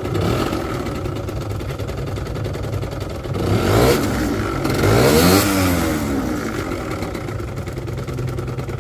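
Gilera DNA scooter engine idling, revved twice about three and a half and five seconds in, each time rising and falling back to a steady idle. The idle no longer dips after the revs now that the carburetor's idle screw has been reset.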